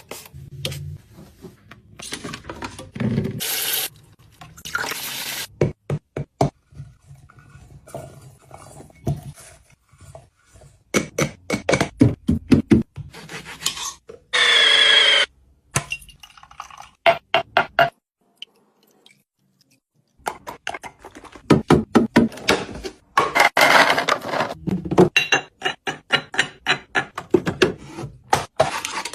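Food packages and plastic containers being handled and set into a fridge: runs of quick clicks, taps and clatters, with a short squeaky tone about halfway through and a brief silence a little later.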